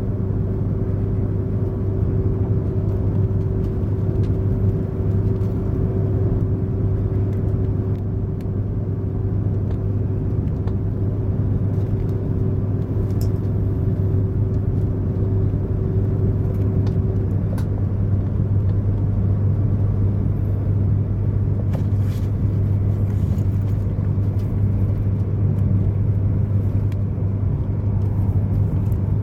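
Running noise inside a Komachi Shinkansen car at speed: a steady low rumble and hum. A steadier, higher tone over it stops about seventeen seconds in.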